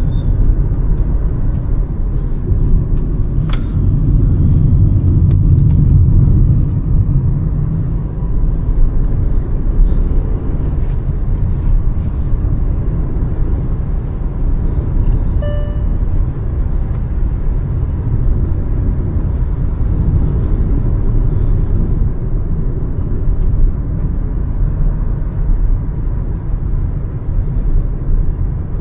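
Hyundai Verna's 1.5-litre turbo petrol four-cylinder and its road noise, a steady low rumble while driving that swells a few seconds in. A short beep sounds about halfway through.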